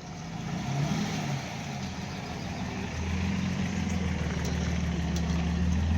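A car engine running close by: its pitch wavers briefly about a second in, then it settles into a steady idle that grows gradually louder.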